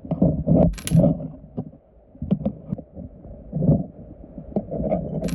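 Creek stones knocking and scraping as gravel and sediment are dug out by hand underwater: an irregular run of dull clunks, with two sharp clicks, about a second in and near the end.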